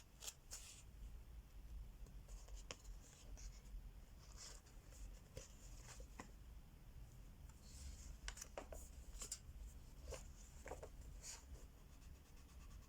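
Crayola wax crayon rubbing on colouring-book paper: faint scratchy strokes, with a few soft clicks and taps.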